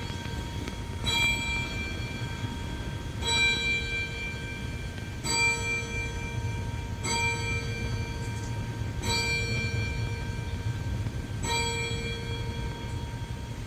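A single metal bell or chime struck again and again, about every two seconds, six times. Each strike rings with the same set of bright overtones and fades over a second or two, over a low steady rumble.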